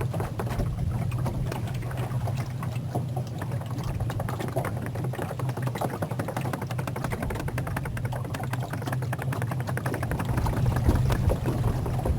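Small boat's motor running steadily at an even speed, with some water noise.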